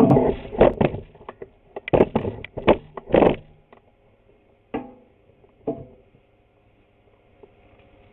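Wooden boards being handled and set down while being glued up and lined up: a quick run of knocks and clatters over the first three seconds or so, then two single knocks, after which only a faint hum remains.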